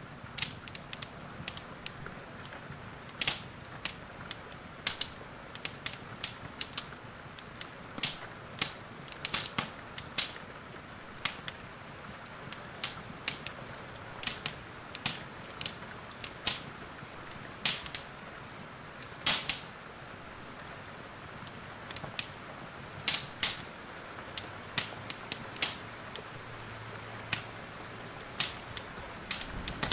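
Wood fire crackling in a fireplace, with irregular sharp pops every second or so over a steady hiss of rain.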